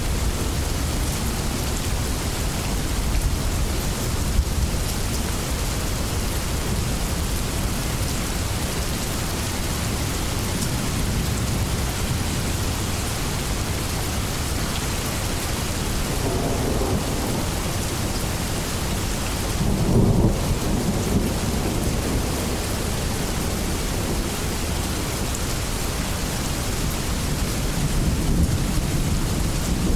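Steady heavy rain falling, with thunder rumbling in low swells, loudest about two-thirds of the way through and again near the end.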